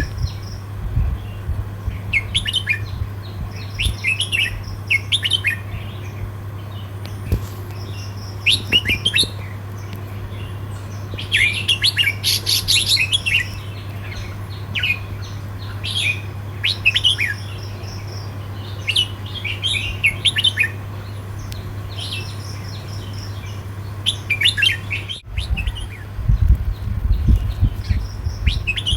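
Red-whiskered bulbul singing short, quick chirpy phrases, repeated every second or two, over a steady low hum.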